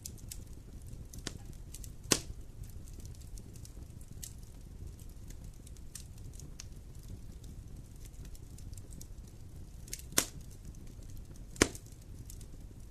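Wood campfire burning: a low steady rumble with sparse crackles and three sharp pops, one about two seconds in and two close together near the end.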